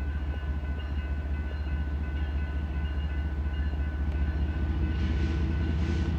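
BNSF diesel freight locomotives approaching slowly: a steady low engine rumble that grows slightly louder, with a few faint steady high tones over it.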